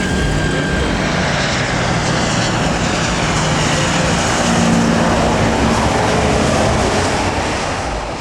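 Jet airliner passing low overhead: a loud roar that swells to its peak about halfway through and fades near the end.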